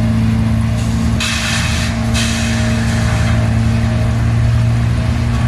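Heavy machinery engine running steadily at a constant pitch, with a burst of hissing about a second in and a fainter hiss after it.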